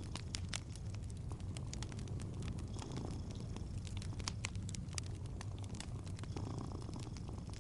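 A cat purring steadily in a low, even rumble, with the scattered crackles and pops of a wood fire burning throughout.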